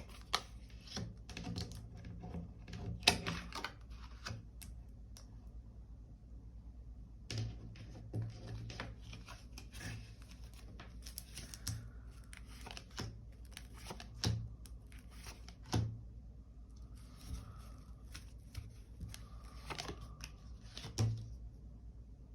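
Tarot cards being handled and laid on a table: irregular light taps and slaps of cards with short papery rustles, over a faint steady low hum.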